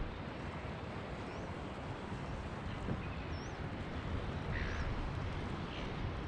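Wind buffeting the microphone over a steady outdoor rush, with a few short, high bird chirps scattered through it.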